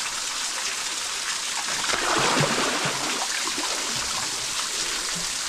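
Running water trickling steadily, a little louder about two seconds in.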